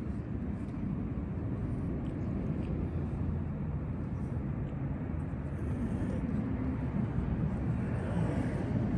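Steady low outdoor rumble with no distinct events, the kind of background noise distant traffic or an aircraft overhead makes.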